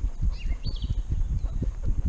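Low, uneven thumping from a GoPro on a dog's chest harness, jolted several times a second as the dog moves. Birds chirp faintly now and then.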